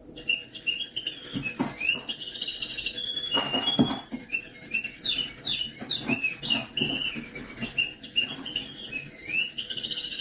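A small bird chirping and twittering: a quick, almost unbroken run of short high chirps sliding up and down in pitch, with a few soft knocks among them.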